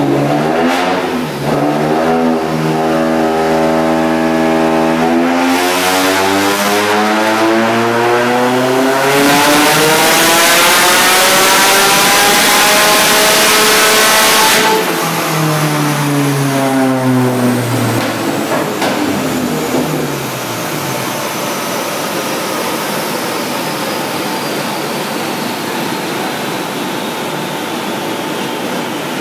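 Turbocharged four-cylinder engine of a Nissan 180SX drift car running a full-power pull on a chassis dyno. The revs climb steadily for about twelve seconds, then the driver backs off and the revs fall away. After that the car and dyno rollers run down with a steady noise and a slowly falling whine.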